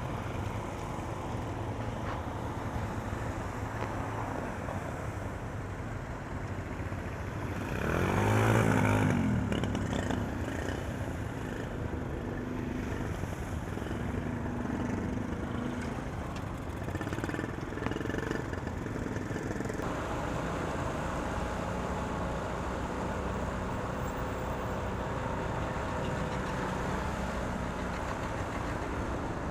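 Road traffic: vehicle engines running steadily, with one vehicle passing close and loudest about eight seconds in, its pitch bending as it goes by.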